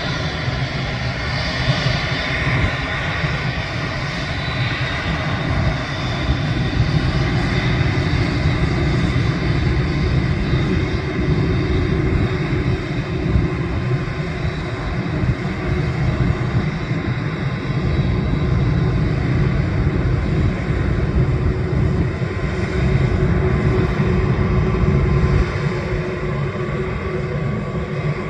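Airbus A380 jet engines running steadily: a low rumble with a steady whine of engine tones above it.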